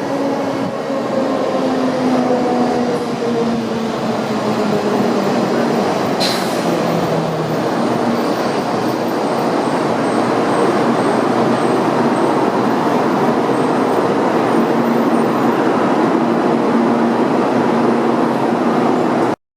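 Taiwan High Speed Rail 700T train running on the line, with a motor whine that glides slightly downward over the first few seconds and steady wheel and rail noise that slowly grows louder. A single sharp click sounds about six seconds in.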